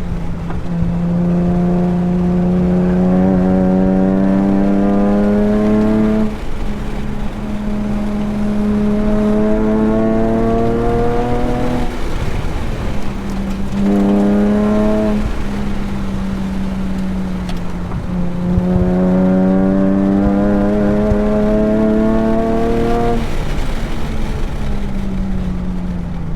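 Nissan 370Z Nismo's 3.7-litre V6 under hard acceleration on track, heard from inside the car. The engine note climbs in pitch in long pulls, breaks off briefly about six and twelve seconds in, pulls again, then falls in pitch near the end as the car slows.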